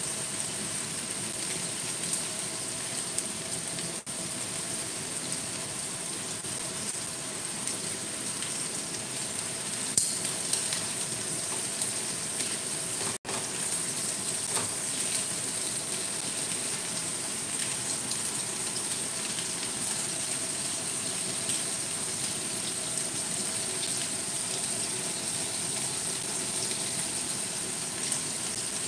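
Chicken pieces sizzling steadily in hot oil with garlic, chili and spring onion in a stainless steel wok, with a single sharp click about ten seconds in.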